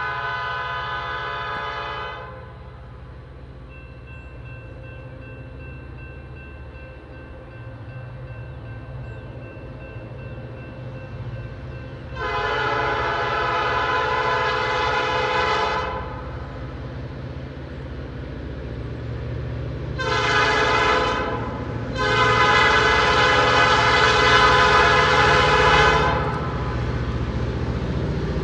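Train horn sounding a series of chime blasts: one ending about two seconds in, then long, short, long, the grade-crossing warning pattern. A steady low locomotive rumble grows louder as the train approaches.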